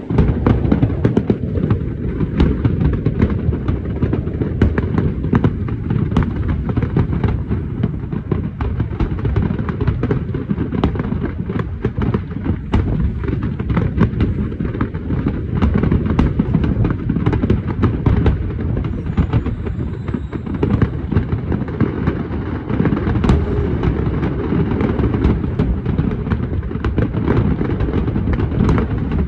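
Large fireworks display: a dense, unbroken barrage of shells bursting, deep booms overlapping with many sharp cracks and crackles.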